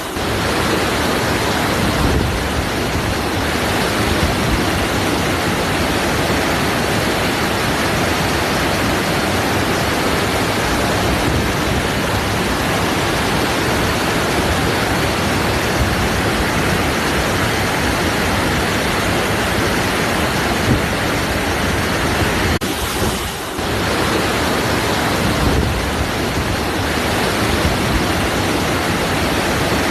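Waterfall rushing: a steady, dense wash of falling water, with a brief dip and resumption about 23 seconds in.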